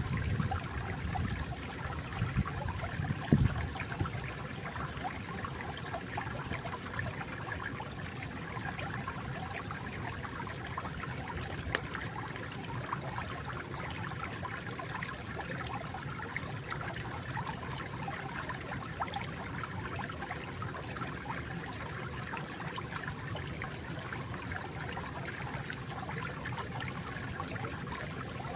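Flowing stream water trickling and babbling steadily, with a few deeper gurgles in the first few seconds.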